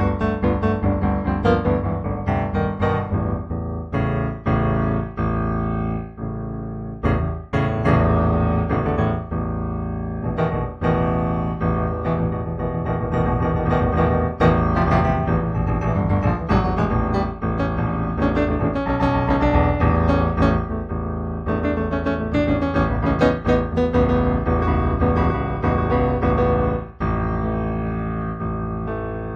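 Background solo piano music, improvised, with many notes struck in quick succession.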